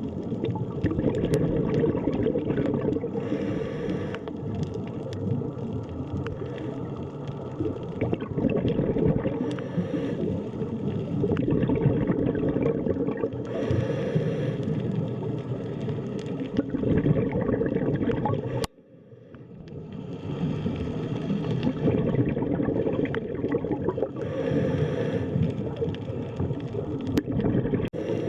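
Underwater ambience: a steady low wash of water, with brief brighter bursts of bubbling every few seconds. About two-thirds of the way in it cuts out suddenly and fades back up over a second or two.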